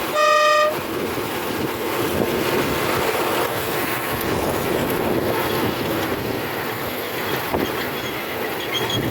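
A miniature railway locomotive's whistle gives one short toot at the start, then the train runs steadily along the track.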